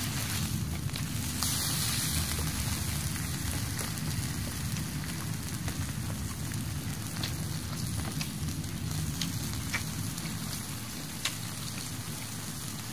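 Wood fire of green, unseasoned oak logs burning with a steady hiss and a few sharp pops scattered through.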